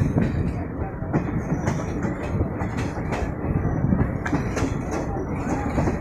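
Moving local passenger train running along the track: a steady rumble of the coach wheels on the rails, with irregular clattering clicks as the wheels pass over rail joints.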